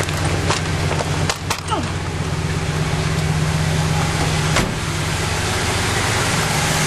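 The 1967 Oldsmobile Delmont 88's 425 cubic inch V8 with two-barrel carburettor idling steadily while warming up after a cold start. A few sharp knocks and clicks sound in the first two seconds and once more a little after halfway.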